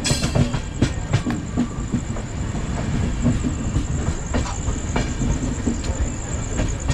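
Chennai Mail Express passenger train rolling on the track: a steady low rumble with wheels clacking over rail joints and a thin, steady high whine.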